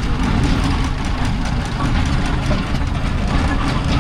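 Steam traction engines running: a steady low rumble with a noisy hiss above it.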